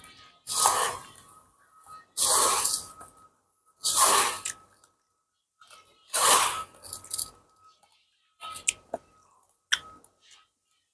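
Close-miked crunching of hard raw corn rice chewed between the teeth: four loud crunchy chews about two seconds apart, then a few softer clicks and short crunches.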